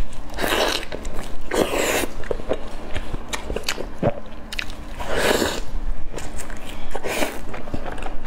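Close-miked biting and chewing of a sauce-dripping piece of food, with four louder bursts of wet mouth noise a few seconds apart and small clicks of chewing between them.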